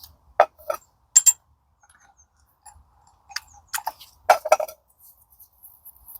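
Steel parts of a Toyota MMT gearbox shaft clinking as they are handled and fitted by hand: a handful of sharp, irregular clicks and knocks, a few with a short metallic ring.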